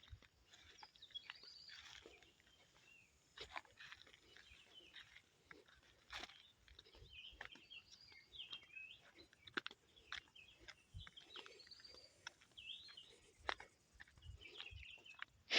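Faint outdoor birdsong: small birds chirping in short repeated calls, with scattered sharp clicks and rustles of twigs and leaves.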